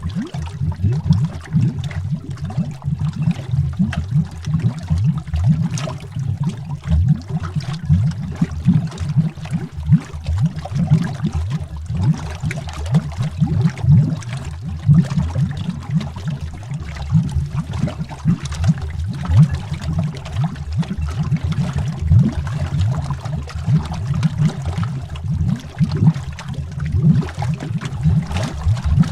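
Underwater bubbling: a dense, continuous stream of low, rapid bubble gurgles, with fainter fizzing above.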